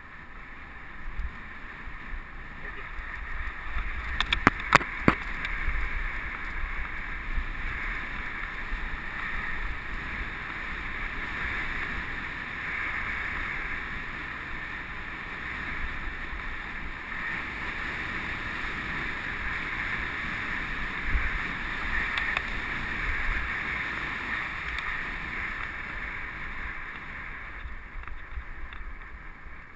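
Mountain bike riding on a dirt trail, heard through a helmet-mounted GoPro: a steady rushing noise of wind and tyres on the ground with low rumble, and a quick cluster of sharp knocks about four to five seconds in.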